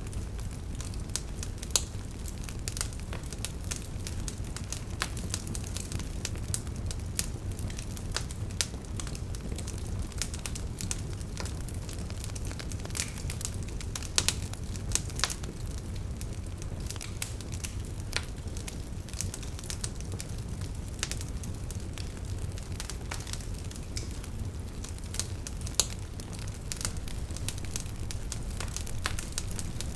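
Wood fire crackling in a fireplace: steady low flame noise with frequent, irregular sharp pops and snaps.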